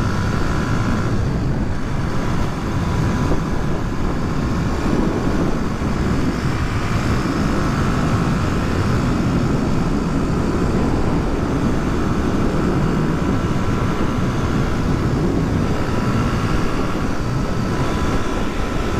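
Suzuki DR250S single-cylinder motorcycle engine running at a steady road speed, under a heavy rush of wind over the microphone.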